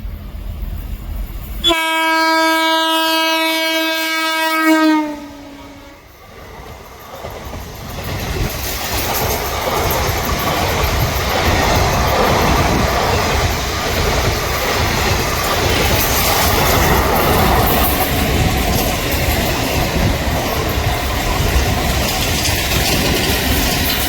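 Locomotive horn sounding one long blast of about three seconds, dipping slightly in pitch as it ends. It is followed by the growing, then steady rumble and clatter of a train running past on the track.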